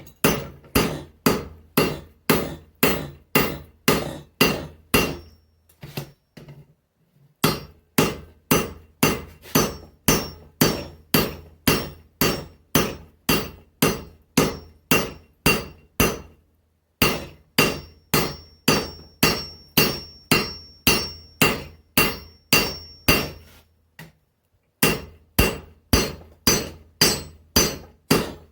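Blacksmith's hand hammer striking a hot mild-steel axe head on an anvil, about two to three blows a second with a bright ringing tone. The blows come in long runs, broken by brief pauses about six seconds in, about seventeen seconds in and about twenty-four seconds in. This is the axe head's neck and edge being drawn out.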